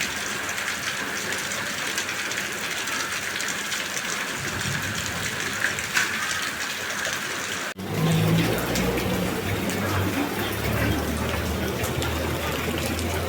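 Heavy rain pouring down, a steady hiss. About eight seconds in it cuts to a louder stretch of rain with a low rumble underneath.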